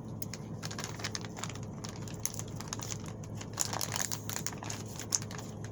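Butter sizzling and crackling in a hot pan with Rice-a-Roni being browned in it: an irregular patter of small crackles over a steady low hum.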